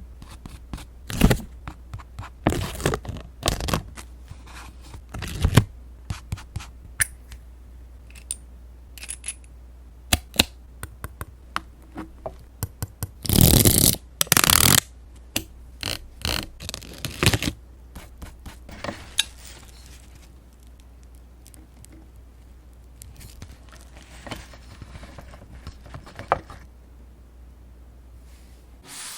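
Paper and stickers being handled close to the microphone: scattered light taps, clicks and scrapes, with two longer scraping rustles about halfway through and sparser handling after that. A faint steady low hum sits underneath.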